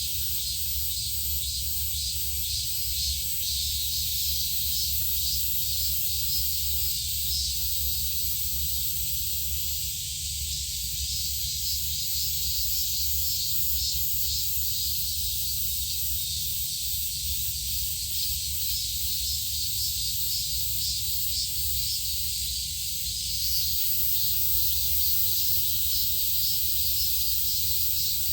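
A steady, high, rapidly pulsing insect chorus, with a low steady rumble underneath.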